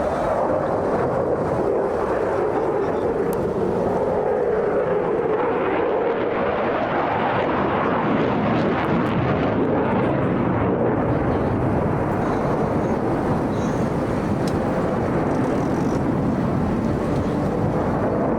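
Eurofighter Typhoon fighter jet flying its display at high power, a continuous jet noise that swells and brightens about a third of the way in.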